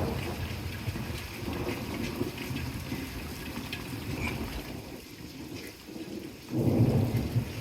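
Rain falling steadily with scattered drop taps, under rolling thunder from a weak thunderstorm. A low rumble fades out early on, and a louder clap of thunder breaks in suddenly near the end.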